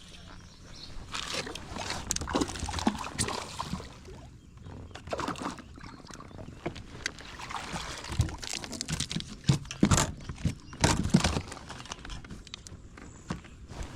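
Water splashing and sloshing around a kayak, with irregular knocks and bumps against the hull, loudest around the middle and two thirds of the way through.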